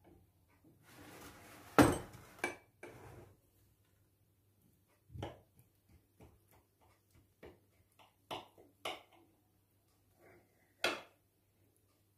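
Scattered clinks and knocks of dishes and utensils being handled in a kitchen, the sharpest clink about two seconds in, with a short rush of noise just before it.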